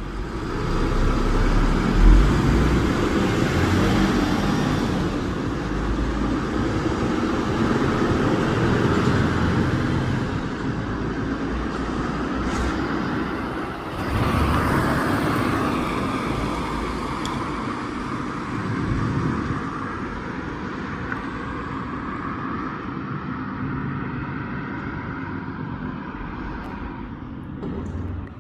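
Motorcycle engines running at a bike meet, a steady deep rumble that swells louder about fourteen seconds in.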